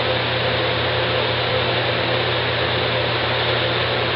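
Steady background hiss with a low hum underneath, unchanging throughout, like a fan or air-conditioning noise in a small room.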